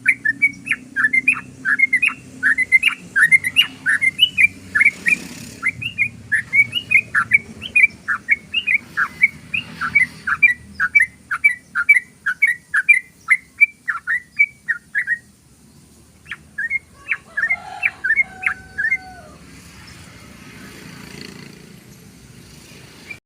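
Yellow-vented bulbul (trucukan) singing a long, fast run of short chirping notes, about three a second. The run stops about two-thirds through, a shorter burst follows, and then the bird falls silent.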